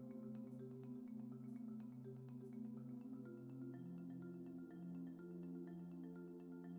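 Background music led by mallet percussion such as marimba, with sustained notes that change pitch every second or so.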